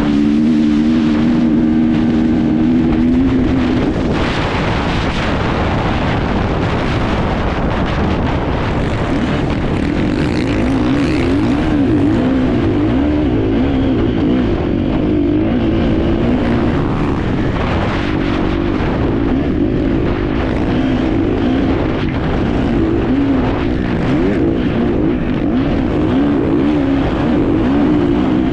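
Enduro motorcycle engine heard from an on-board camera while racing off-road, the revs rising and falling constantly over a steady rush of wind and riding noise.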